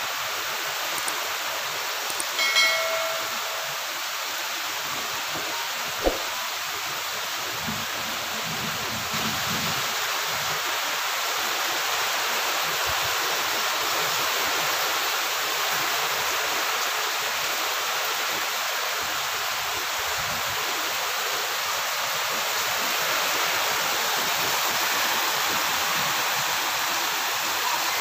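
Heavy rain pouring down steadily, with water streaming off a roof edge. A brief pitched call or tone cuts through about two and a half seconds in, and a sharp tap sounds at about six seconds.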